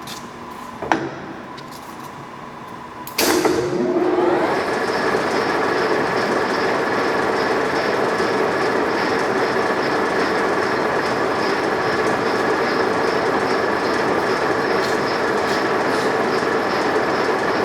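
Mazak engine lathe's spindle drive engaging with a sharp clunk about three seconds in, its gear whine rising as the spindle runs up to speed, then the headstock gearing running steadily with a constant whine, set to about 475 RPM.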